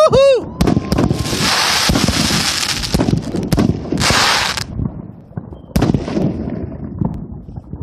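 Consumer fireworks going off: a rapid string of shots and bangs with two spells of dense crackling hiss, thinning out in the last few seconds.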